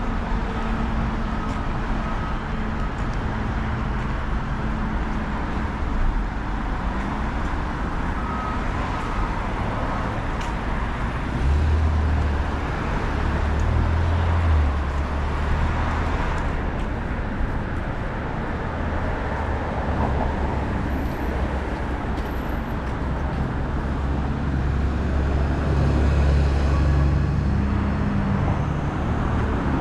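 Street traffic: motor vehicles passing on a city road as a steady wash of tyre and engine noise. A low engine rumble grows louder twice, about a third of the way in and again near the end.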